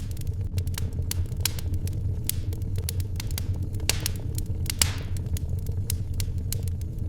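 Wood fire crackling with irregular sharp pops and snaps, one louder snap about five seconds in, over a steady low rumble.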